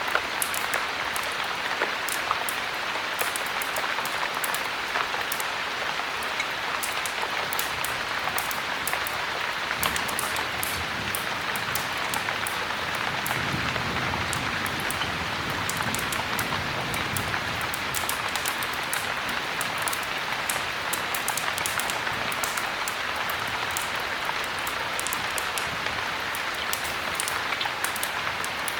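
Steady heavy rain falling, with many small sharp ticks scattered through it. A soft low rumble swells and fades from about midway.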